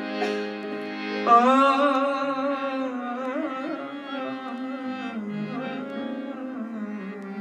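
Hindustani classical music: about a second in, a singer enters with long, ornamented held notes over a steady drone.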